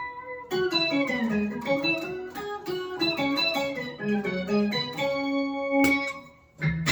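Electric guitar played through a Boss SY-200 guitar synthesizer pedal on its "Whistly Lead" preset: a single-note synth lead line with pitch slides, ending on a held note that fades away before a new note starts.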